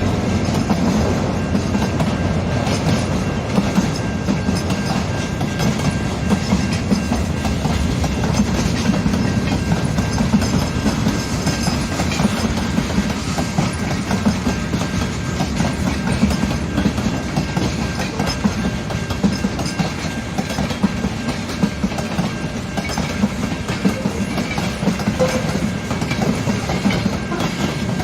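CN mixed-freight train's cars rolling past, with a steady rumble and a continual clickety-clack of wheels over rail joints.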